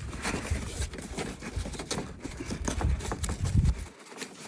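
Irregular clicks and knocks of plastic door-trim pieces and wiring being handled and fitted into a truck door, with some low rumbling.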